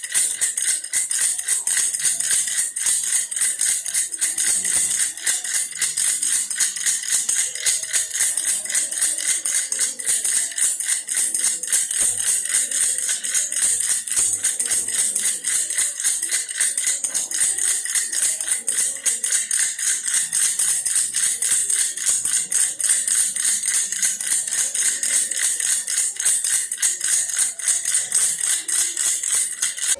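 Baby's toy bear rattle shaken without pause, a dense, fast, bright rattling of small beads inside.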